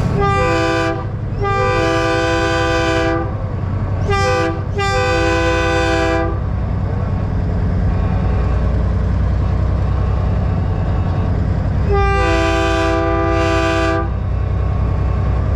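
Truck-mounted train horn sounding a multi-tone chord in blasts: a short one, a longer one, then a quick short-long pair, and after a pause of about six seconds one more blast of about two seconds. A steady low diesel engine rumble runs underneath.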